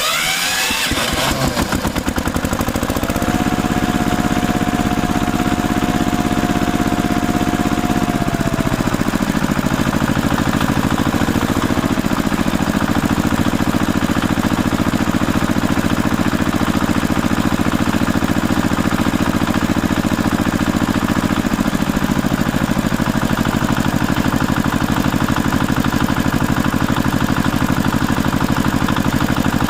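An engine running steadily, with a whining tone that holds for a few seconds and then slides down about a third of the way through.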